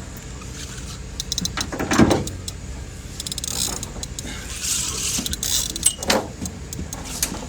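Fishing reel being wound in while a small catfish is brought to the boat: rapid mechanical clicking, knocks, and a loud thump about two seconds in.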